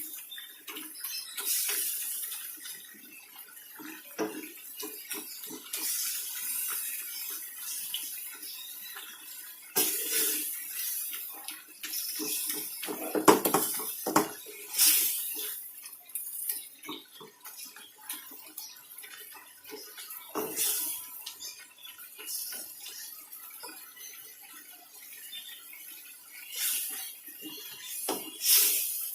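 Water from a kitchen tap running in short spells, with bowls and pans knocking and clattering in the sink. The loudest clatter comes about halfway through.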